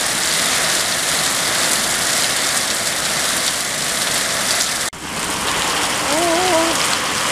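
Heavy rain pouring down, a steady dense hiss of drops hitting the ground and surfaces. The sound breaks off for an instant about five seconds in, and a short wavering pitched sound rises over the rain near the end.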